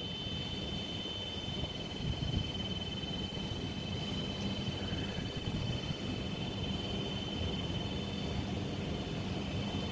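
Railway station platform ambience: a steady low rumble from a regional electric train approaching in the distance, with wind on the microphone and a faint continuous high-pitched whine.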